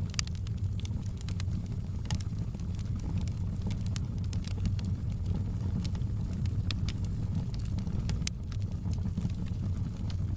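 Fire burning in a fireplace: a steady low rumble of the flames with scattered sharp crackles and pops at irregular times.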